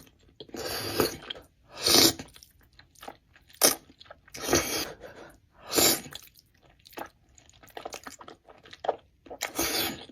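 Close-miked chewing and crunching of food in a mouth, a run of separate bites and chews roughly one a second, some louder than others.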